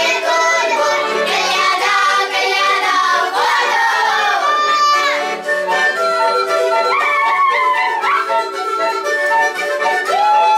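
Children's folk ensemble singing a kolyada carol with instrumental accompaniment, the music running continuously, with falling sliding notes twice, about a third of the way in and again past the middle.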